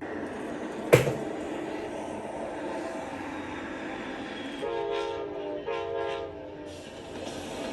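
An Amtrak P42DC diesel locomotive and its train rumbling along, with a sharp knock about a second in. The air horn sounds twice near the middle, a blast of about a second followed by a shorter one.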